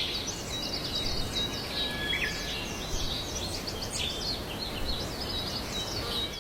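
Several birds chirping and warbling in quick, overlapping calls over a steady background hiss.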